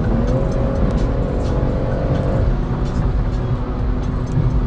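Car driving, heard from inside the cabin: steady engine and road rumble, with an engine tone that rises slightly near the start and then holds.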